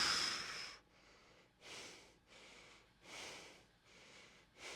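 A man's breathing: one loud exhale at the very start, then a run of short, soft breaths in and out.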